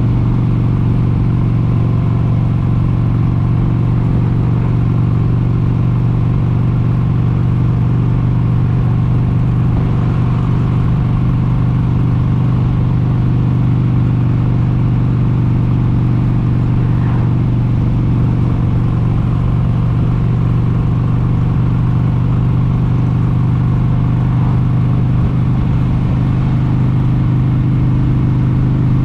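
1996 Harley-Davidson XLH883 Sportster Hugger's 883 cc air-cooled V-twin running at a steady cruising speed, a continuous low engine note that holds level throughout.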